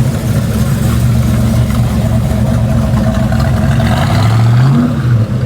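Car engine running close by with a deep, steady note, revving up briefly about four seconds in and then easing off.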